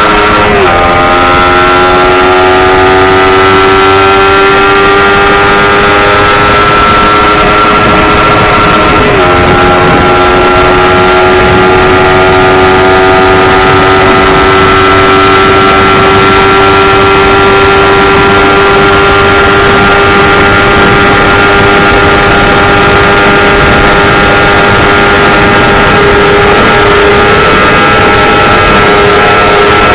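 Suzuki GSX-R150's single-cylinder four-stroke engine running hard at high revs during a top-speed run. Its pitch drops at two upshifts, about half a second in and about nine seconds in, then climbs slowly as the bike gains speed.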